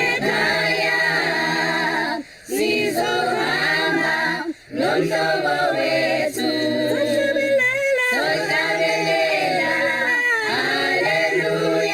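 Choir singing a cappella in sustained phrases, with two brief breaks between phrases in the first half.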